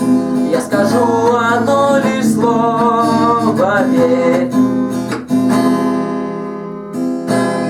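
Acoustic guitar strummed under a man singing, his voice holding long wavering notes through the first half. The guitar then carries on alone to a final chord and stops abruptly near the end.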